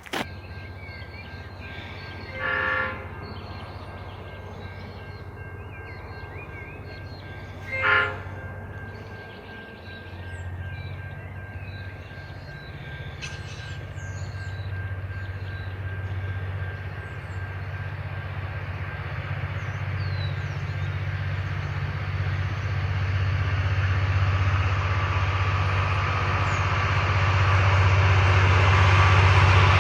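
A train sounding two short horn blasts, about two and a half and eight seconds in, over a low rumble that grows steadily louder as it approaches.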